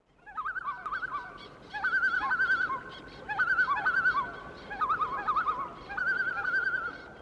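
Bird calls: about five bouts of quavering, warbling calls, two voices overlapping at slightly different pitches.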